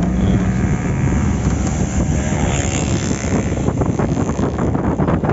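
A vehicle on the move: steady engine and road noise, with wind buffeting the microphone from about four seconds in.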